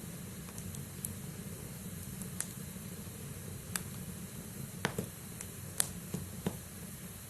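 Logs burning in a fireplace: a steady low rumble of flame with scattered sharp crackles and pops from the burning wood, the loudest pops coming in the second half.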